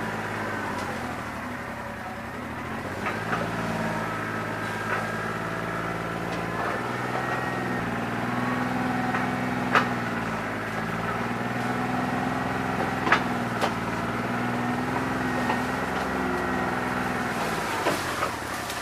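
New Holland 1320 tractor's diesel engine running, its speed dipping and recovering several times, with a couple of sharp clicks about ten and thirteen seconds in. It is running rough on a bad injector, firing on only part of its cylinders.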